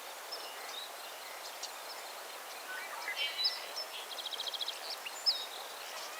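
Wild birds calling: scattered short high chirps and quick down-slurred notes, with a rapid trill of about a dozen notes a little past four seconds in, over a steady background hiss.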